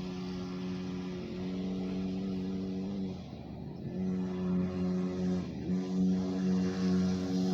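Dirt bike engine running at a steady pitch. It eases off for under a second about three seconds in, then comes back on louder, with another brief dip a couple of seconds later.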